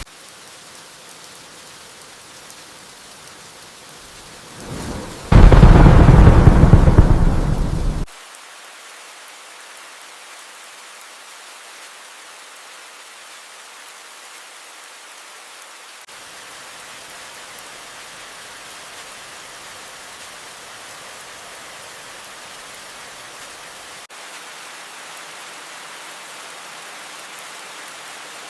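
Steady rain falling, with a single thunderclap about five seconds in: a short low rumble, then a loud crash lasting about three seconds that cuts off suddenly.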